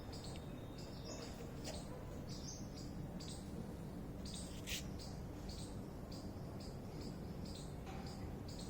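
Small birds chirping, many short high calls repeated throughout over a steady low background noise, with one sharp click about halfway through.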